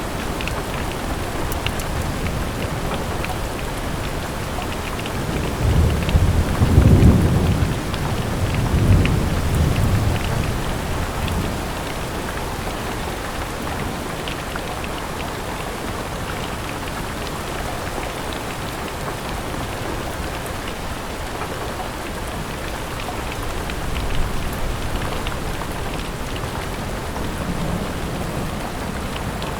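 Steady rain with scattered drop ticks. A low thunder rumble swells about six seconds in and lasts several seconds, and a fainter rumble comes near the end.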